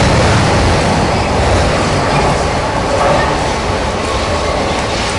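Electric commuter train running along the platform track: a steady rumble of wheels on rail with running noise, easing off slightly.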